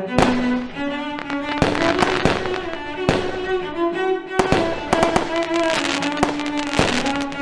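Bowed-string music, violin and cello, playing a held melody. Irregular sharp bangs of fireworks going off sound over it, several coming in quick clusters.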